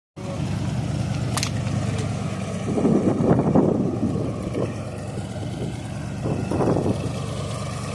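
Engine of a 1977 car running steadily, with two louder swells, about three seconds in and again near seven seconds.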